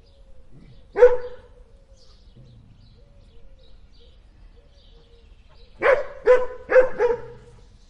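A dog barking: a single bark about a second in, then a quick run of four barks near the end.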